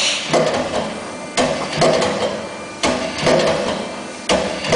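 CNC hydraulic die-cutting press with a moving carriage (SYSCO CPC E30) running automatically, with a sharp cutting stroke about every second and a half. After each stroke there is a fading mechanical hum and hiss.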